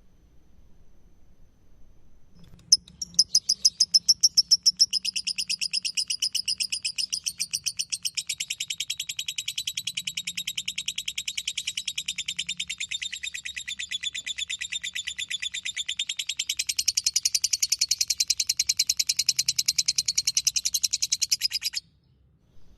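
Lovebird singing its long "ngekek" song: a rapid, unbroken chattering trill of high notes. It starts about three seconds in with louder, more separate notes, runs on for nearly twenty seconds, then cuts off suddenly.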